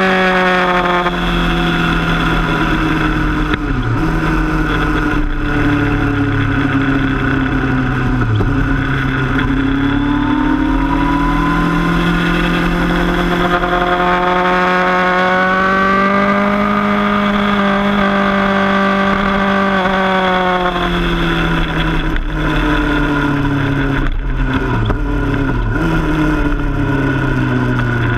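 Kawasaki Z1000's inline-four engine heard from the bike while riding. The revs fall at first, with a couple of gear changes, then climb steadily under acceleration, hold for a few seconds, and drop away again before the end.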